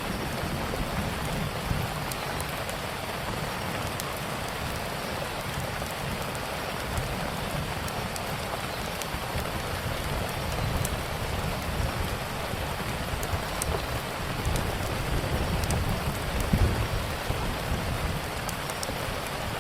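Steady rain falling, with scattered sharp crackles from a wood fire and a low rumble underneath.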